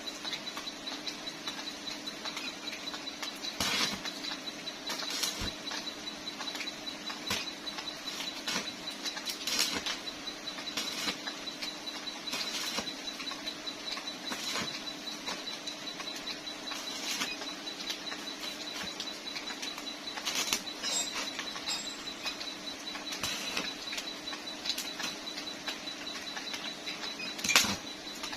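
Electric arc welding on a motorcycle exhaust pipe: a continuous crackling sizzle with frequent sharper pops, over a steady hum, with the loudest pop near the end.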